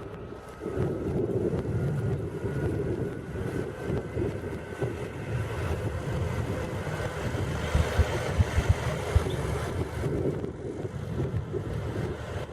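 County 1184 tractor's diesel engine running steadily while ploughing, with wind buffeting the microphone.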